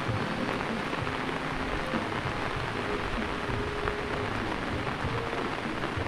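Heavy rain falling steadily on a road and puddles, an even dense hiss.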